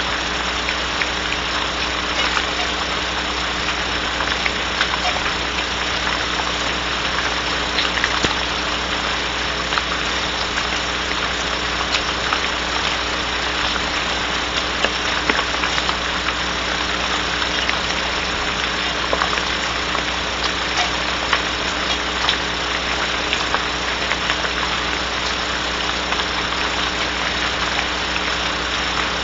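Steady hiss of rain with scattered drops ticking, over a constant electrical hum from the nest-box camera's microphone.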